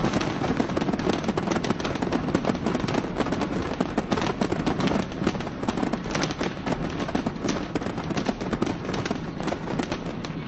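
A large fireworks display going off: a dense, continuous rapid crackle of many bangs and shell bursts.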